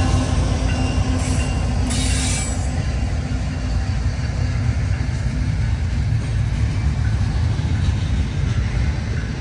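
Freight train passing at close range: the steady hum of the trailing diesel locomotive's engine dies away about halfway through, leaving the continuous rumble and rattle of double-stack container well cars rolling by. A brief hiss comes about two seconds in.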